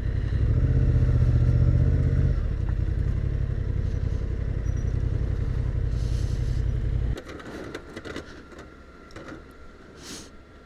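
Motorcycle engine running at low speed with a steady low rumble, louder for the first couple of seconds, then stopping suddenly about seven seconds in. After that only a quiet background with a few light clicks remains.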